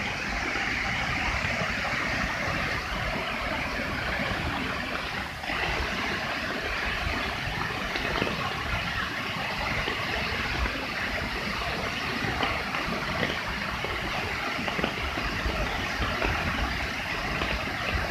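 Waterfall in flood rushing and pouring in a steady, dense roar of water, with one brief dip about five seconds in.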